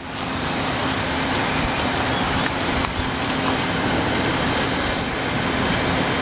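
C57 steam locomotive giving off a steady, loud hiss of escaping steam.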